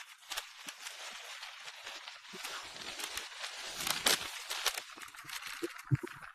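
Wind rushing over a microphone carried on a moving bicycle, heard as a steady hiss with the low rumble filtered out, with scattered clicks and crackles. It swells louder about four seconds in.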